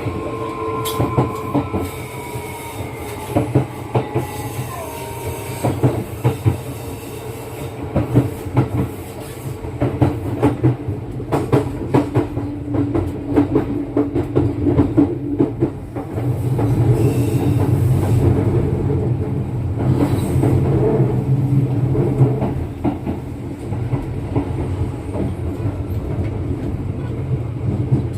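Kintetsu 9020-series electric train heard from inside the car while running: a steady rumble with wheels clicking over rail joints. A falling electric whine in the first few seconds, and the rumble grows louder for several seconds about two-thirds of the way through.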